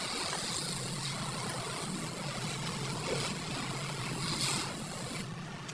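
A machine running steadily: a low hum under an even hiss, the hiss dropping away near the end.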